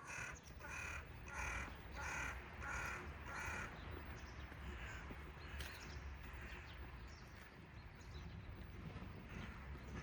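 A bird calling six times in quick, even succession over the first four seconds, over a steady low rumble.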